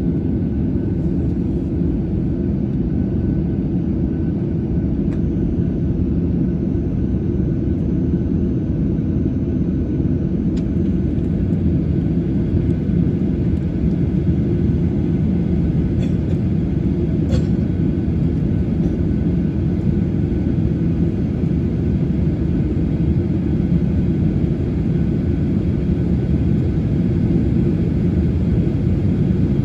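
Boeing 737-800's CFM56-7B turbofan engines running at idle, heard as a steady deep rumble from inside the passenger cabin, with the aircraft parked after its engine start.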